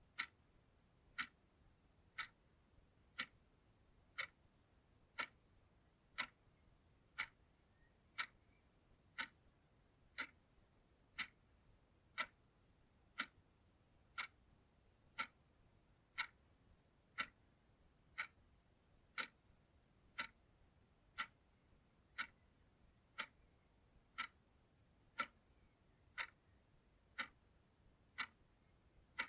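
Clock ticking steadily, one short, sharp tick about every second.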